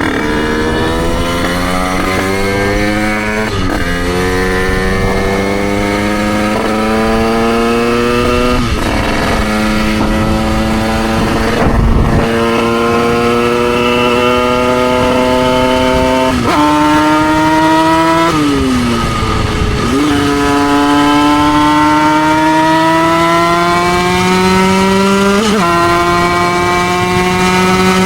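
Derbi Senda's 88cc two-stroke single-cylinder engine pulling hard under the rider, its pitch climbing steadily in each gear and dropping sharply at each upshift, several gear changes in a row. Partway through the pitch falls away and then climbs again as the throttle is eased and reopened, and there is a short low thump near the middle.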